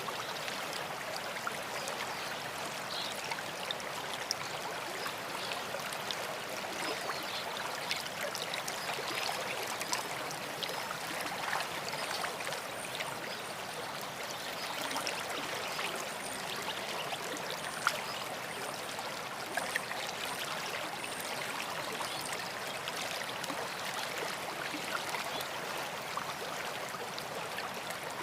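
A stream running steadily, with faint short high chirps of songbirds now and then.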